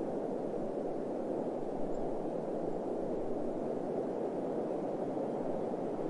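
Steady desert wind ambience: an even, dull rushing noise with no gusts or distinct events.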